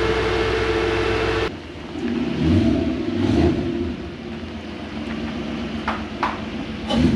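Toyota 1UZ-FE V8 engine, freshly swapped into a Hilux, running steadily. About one and a half seconds in the sound cuts abruptly to a quieter engine note with a couple of short revs, then a few sharp clicks near the end.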